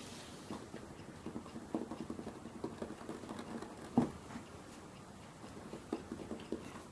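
A pet cat moving about while playing: soft, scattered taps and patters, with one louder thump about four seconds in.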